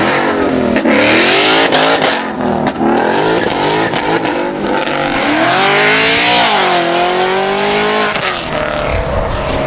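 Car accelerating hard past, its engine revving loudly; the pitch climbs and then drops sharply several times as it shifts up through the gears.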